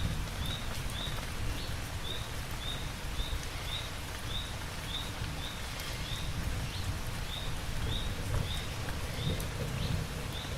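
Steady rain with a low rumble beneath it, and a short, high chirp from a small creature repeating about twice a second.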